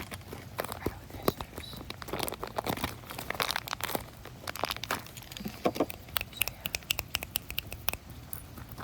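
Plastic packaging crinkling and tearing as it is opened by hand: a dense run of sharp crackles and rustles, busiest a couple of seconds in, then sparser clicks.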